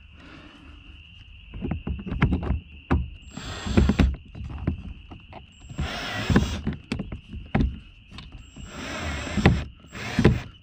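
Car interior trim being handled and fitted: a run of clicks and knocks with several short stretches of scraping and rubbing. A faint steady high whine sits underneath.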